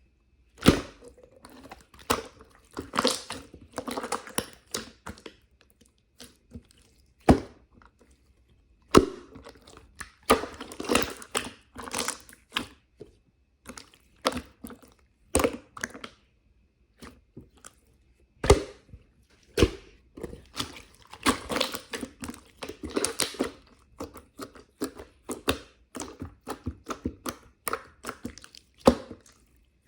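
Irregular clusters of quick clicks and taps from small objects being handled, with a few single sharp knocks and short pauses between them.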